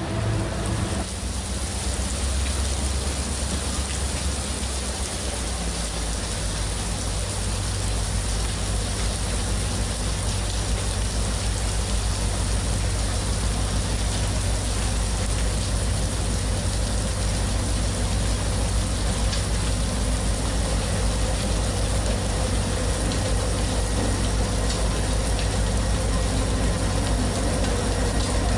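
Steady rain falling, an even hiss, over the low, steady rumble of a diesel locomotive's engine.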